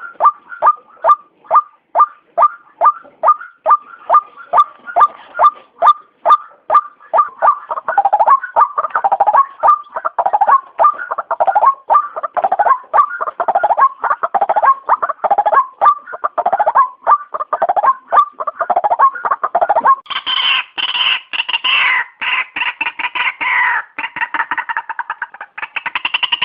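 White-breasted waterhen calling: a fast run of short, sharp notes repeated about three times a second, which after several seconds turns into a denser series of harsher, more varied calls. About twenty seconds in, the calls turn louder and higher.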